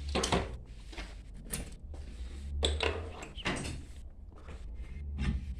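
Irregular metal clanks, knocks and scrapes of tools and pump parts being handled during the strip-down of a booster pump, over a steady low hum.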